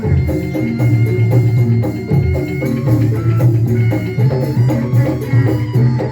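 Instrumental passage of live band music, with a strong bass line, drums and hand percussion under sustained melody notes.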